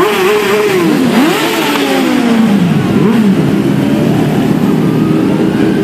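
Several motorcycle engines running together. Over the first few seconds one revs up and its pitch then slides down, as a bike pulls away or rides past.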